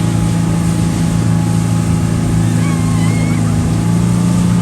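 Speedboat engine running at a steady pitch, over a rushing haze of wind and water.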